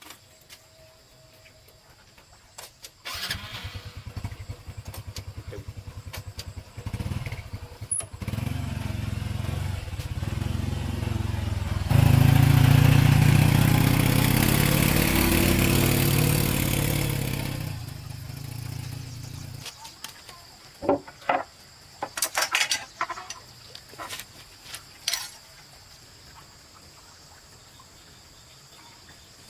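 A small engine running, building up from a few seconds in to its loudest around the middle, then dying away. A few sharp knocks follow near the end.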